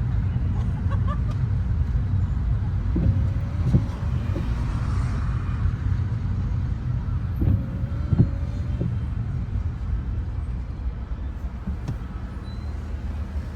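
A car driving on a wet city street at night, heard from inside: a steady low road and engine rumble. A brief whine with a few knocks comes back about every four seconds.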